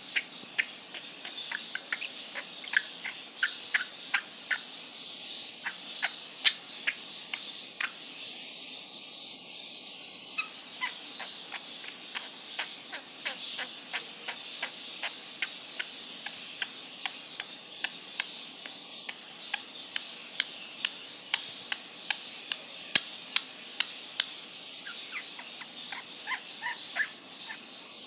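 A bird chirping over and over in short, sharp calls, about two a second, over a steady high hiss.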